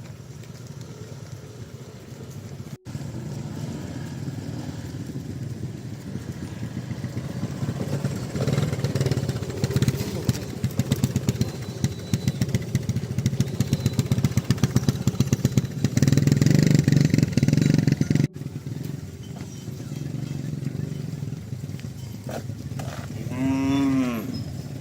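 A motor vehicle engine running with a steady low hum, getting louder and pulsing rapidly for about ten seconds in the middle. Near the end a cow moos once, a single call that falls in pitch.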